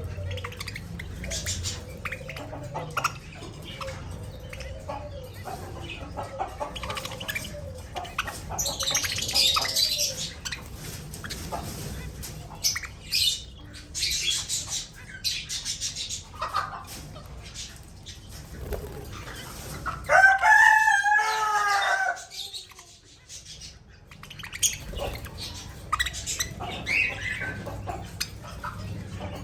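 Pet budgerigars pecking at egg, many small beak clicks and taps, with soft budgie chatter and warbling and bursts of wing fluttering or rustling. About two-thirds of the way through comes one loud, drawn-out bird call lasting about two seconds.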